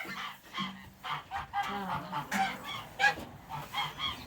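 Domestic geese honking, a quick run of short calls about three a second.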